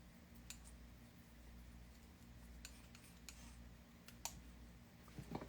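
Faint scattered clicks and light scrapes from a palette knife mixing oil paint on a palette, over a low steady hum.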